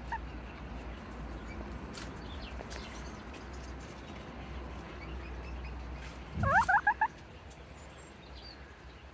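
Serama bantam chicken calling in a quick run of about five sharp notes, about six and a half seconds in.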